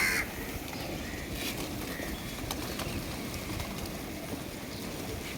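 A large flock of pigeons cooing together in a steady, dense murmur while feeding on scattered wheat, with a few short clicks scattered through it.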